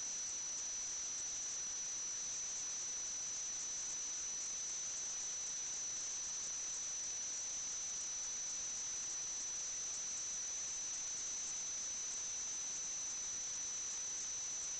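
Steady electronic hiss with a constant high-pitched whine, unchanging throughout: the noise floor of the sewer inspection camera's recording system, with no other sound on the track.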